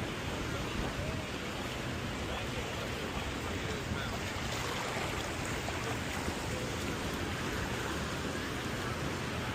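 Steady wash of ocean surf.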